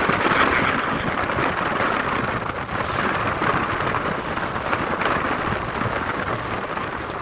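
Strong wind blowing across the microphone on a moving open boat, a steady noisy rush with an uneven low rumble underneath.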